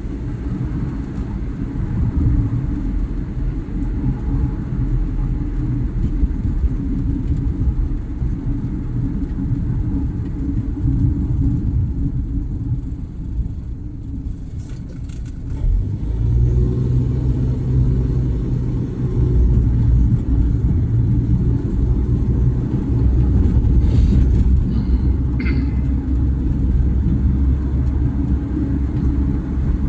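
A car on the move: steady low engine and road rumble, growing heavier about halfway through, with a few light clicks.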